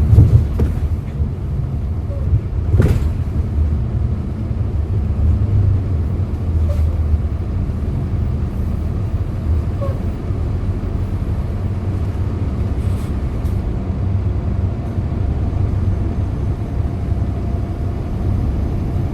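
Hyundai Green City CNG city bus engine running with a steady low rumble, heard from inside the bus. A single sharp knock sounds about three seconds in.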